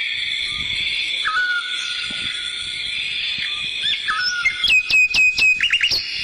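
Nature ambience: repeated short whistled bird-like calls that sweep up and then hold, over a steady high-pitched drone, with a quick run of clicks and calls near the end.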